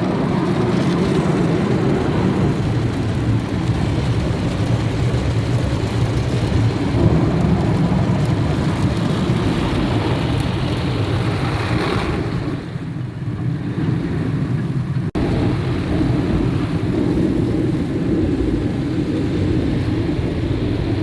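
Automatic car wash working over a car: its brushes and water spray beat on the bodywork in a steady rumble like rain and thunder, easing briefly a little past halfway.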